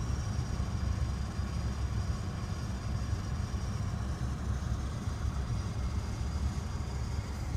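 2000 Honda Insight's air conditioning running: a steady low hum with a faint, steady high-pitched whistle and hiss above it, which the owner suspects may be a fault.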